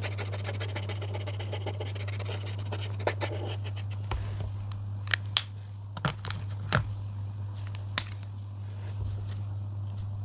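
Coloring pen scratching quickly across paper in rapid strokes, stopping about four seconds in; then a handful of sharp clicks and taps follow, over a steady low hum.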